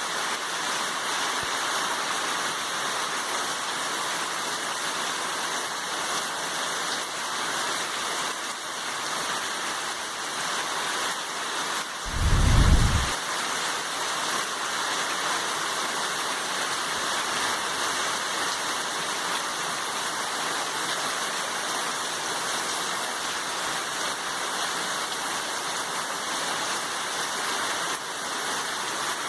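Heavy rain falling steadily, a dense, even hiss. About twelve seconds in, a brief low rumble lasting about a second stands out above it.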